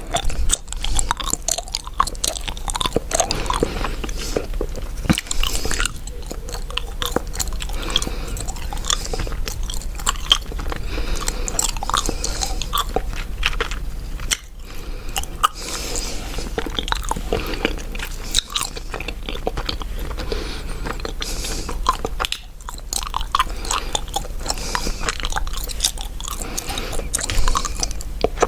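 Chewing gum, a continuous run of small clicks and crackles, with two brief pauses about 14 and 22 seconds in.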